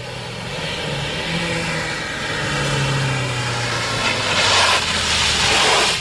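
A car engine runs and revs, its pitch shifting and the sound growing louder. From about four seconds in, a louder rush of the car pulling away takes over, then drops off at the end.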